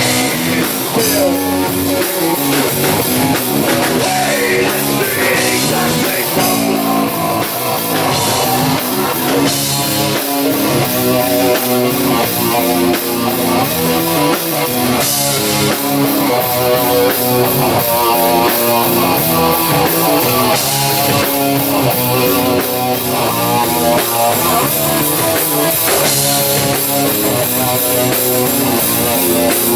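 Live rock band playing: distorted electric guitars and a drum kit, a fast run of guitar notes in the middle.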